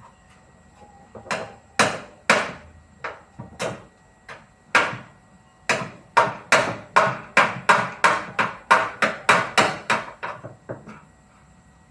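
Repeated hammer blows: a few scattered strikes, then a steady run of about three a second for several seconds before stopping.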